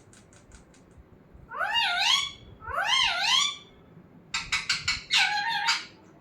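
Pet parrot calling: two drawn-out calls that rise and fall in pitch, then a quick stuttering run of notes, with a few faint clicks just before.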